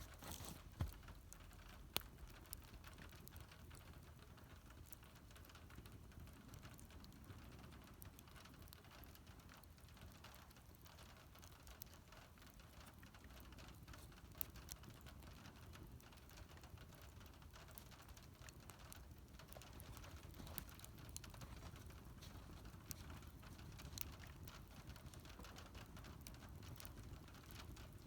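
Wood campfire crackling quietly with scattered small pops, two sharper pops about a second and two seconds in.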